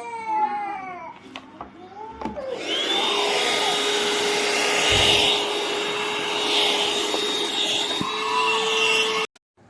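Cordless handheld vacuum cleaner switched on about two and a half seconds in. Its motor spins up to a steady whine over a rush of air, runs for about six seconds, then cuts off suddenly near the end.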